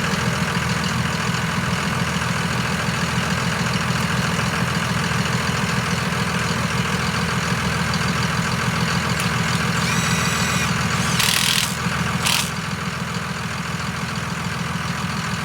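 5.9 Cummins inline-six turbo diesel in a Dodge W600 Power Wagon running steadily. About eleven and twelve seconds in come two short hisses, the first preceded by a brief high whistling.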